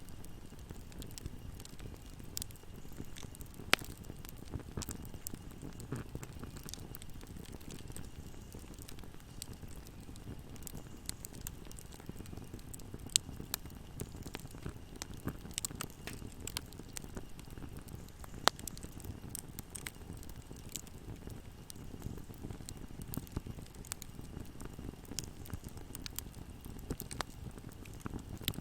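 Wood fire burning in a fireplace: a steady low rumble of the flames with irregular crackles and snaps, a few of them sharper pops.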